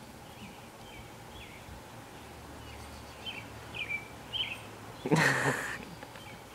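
Small birds chirping faintly, a few short calls over a quiet background, then about five seconds in a brief loud vocal sound.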